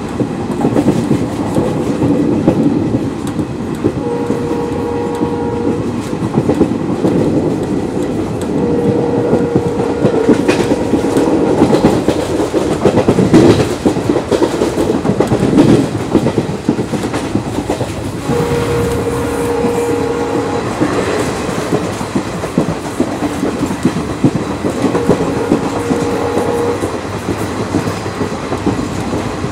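Express passenger train running at speed, heard from an open coach doorway: wheels clattering on the rails over a steady rumble, with the locomotive horn sounding four times in blasts of two to three seconds.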